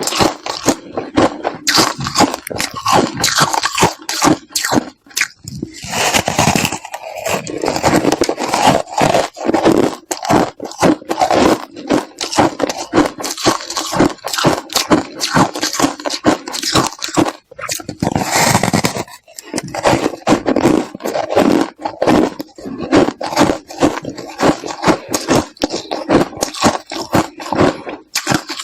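Ice being bitten and chewed close to the microphone: a fast, continuous crunching and crackling, with a couple of denser grinding stretches.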